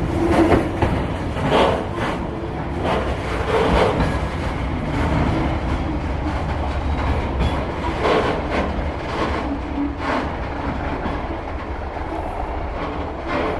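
A train rolling past at close range, a steady low rumble with the wheels knocking irregularly over rail joints every second or two.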